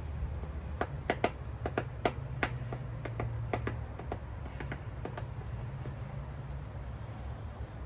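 Woodpecker pecking at the wall of a house: a string of sharp, irregular single taps, bunched in the first few seconds and then stopping, over a low steady hum.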